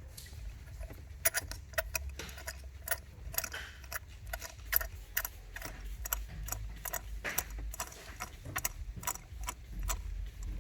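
Irregular light metallic clicks and ticks, several a second, from a deep spark-plug socket being turned by hand to thread a new spark plug into the cylinder head, before it is tightened with the ratchet.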